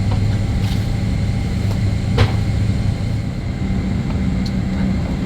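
Steady low hum and rumble inside the cabin of a Boeing 767-300, with one sharp click about two seconds in.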